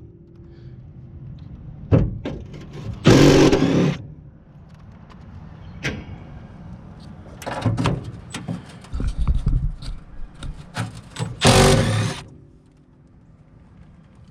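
Impact driver run in two short bursts, about three seconds in and near the end, backing rusted screws out of a furnace inducer housing, with clicks and rattles of the tool and screws between bursts.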